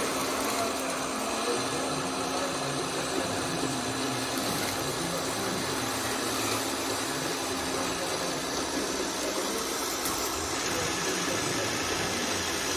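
Steady running engine or motor noise with an even hiss, no distinct knocks or revs.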